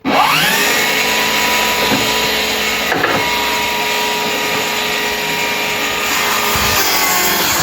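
DeWalt DCS7485 54V FlexVolt cordless table saw's motor and blade switched on, climbing to speed within a moment and running steadily with a whine, then switched off near the end.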